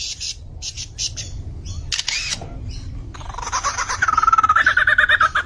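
A bird's song: a run of short sharp clicks and brief bursts, then, from about three seconds in, a loud, fast-wavering trill.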